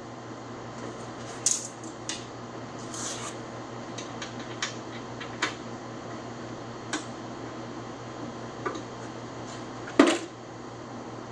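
Hand tools clicking and clinking against the metal of a truck door while its mirror is unscrewed: scattered sharp taps, about a dozen, with the loudest knock near the end, over a steady low hum.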